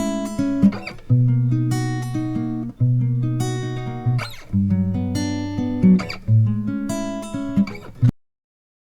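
Guitar music: plucked chords, a new chord struck every second or two, cutting off suddenly about eight seconds in.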